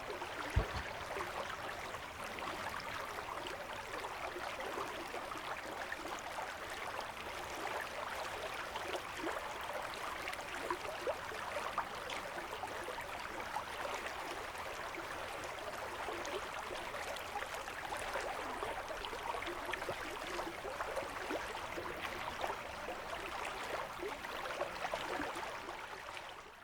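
Steady, even rush of the Nolichucky River's water flowing past.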